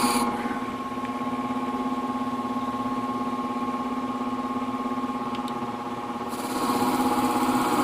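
Motor-driven sharpening wheel running with a steady hum while a ceramic shear blade is polished on it with fine diamond spray. A higher hiss drops away just after the start and comes back about six and a half seconds in.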